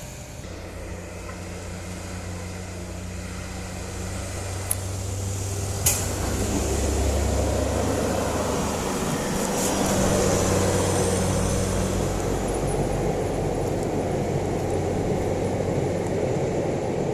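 Diesel engine of a truck heavily loaded with sugarcane, labouring up a steep climb; it grows louder from about four seconds in and then holds steady. Two sharp clicks come in the middle.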